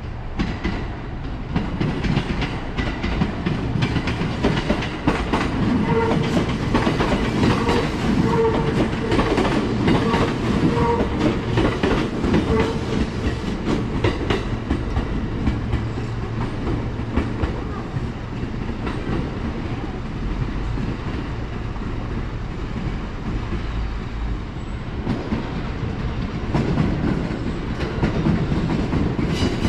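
Electric commuter train running past on the rails, its wheels clacking rapidly over the rail joints above a steady rumble.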